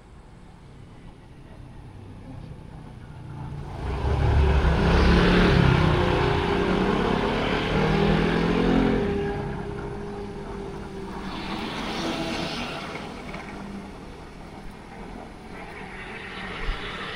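A motor vehicle passing close by: its engine and road noise build up, are loudest for several seconds with the engine note falling in pitch, then fade, followed by quieter passes of further traffic.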